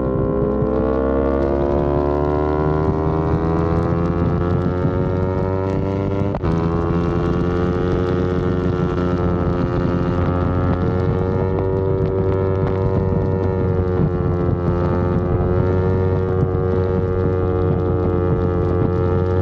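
Yamaha R25's parallel-twin engine running under way, rising in pitch over the first couple of seconds, then holding a fairly steady pitch. There is a momentary break in the note about six seconds in.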